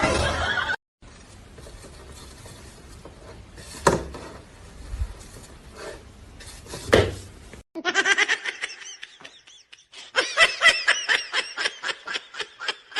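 A person laughing in rapid, high giggling pulses, starting about eight seconds in after a quieter stretch with two sharp knocks.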